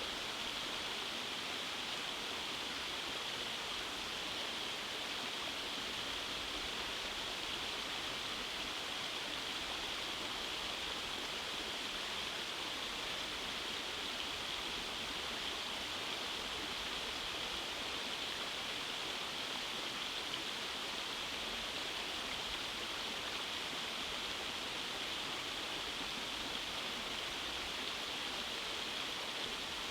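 Rainforest stream rushing over cascades, a steady, even rush of water with no change.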